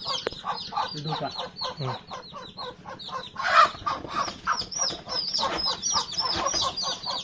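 Young chicks peeping non-stop in quick, short, high-pitched calls while being held for eye-drop vaccination, with a brief louder burst of noise about halfway through.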